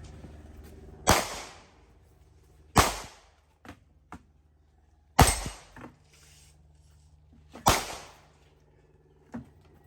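Desert Eagle .50 AE pistol fired four times, irregularly, about one and a half to two and a half seconds apart. Each shot is a sharp crack with a short echoing tail, with a few faint clicks between shots.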